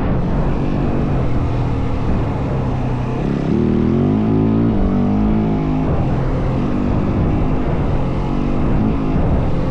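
Yamaha WR450F dirt bike's single-cylinder four-stroke engine running under way, its pitch climbing and dropping with the throttle about halfway through, over a steady rush of noise.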